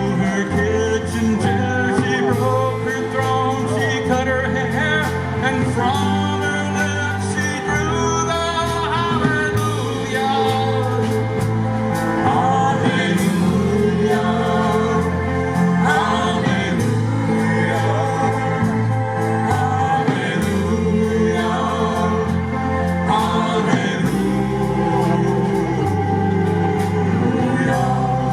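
Live band playing a song, a singer's voice over bass and a steady drumbeat.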